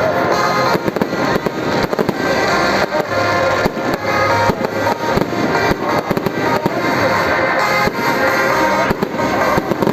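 Fireworks display: a rapid, irregular series of bangs and crackling bursts, with music playing underneath.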